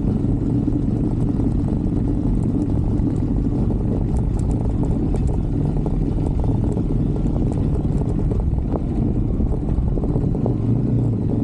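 125cc Brixton motorcycle's single-cylinder engine running at a steady pace while riding along, its low note holding even without revving up or down.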